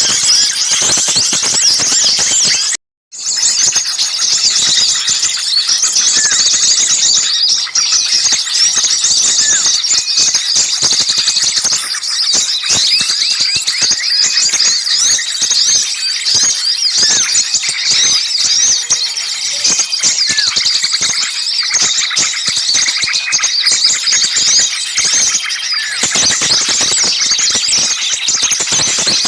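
Dense chorus of many small songbirds chattering and calling at once, a high, busy and continuous din of chirps and trills, the agitated 'ribut' calling used in bird-lure recordings. The sound cuts out completely for a moment about three seconds in, then resumes.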